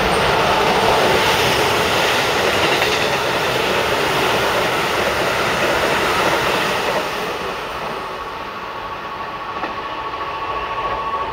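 Keikyu electric train passing through the station at speed, a loud steady rush of wheels on rail that eases off after about seven seconds. A thin steady whine stays over the quieter rumble near the end.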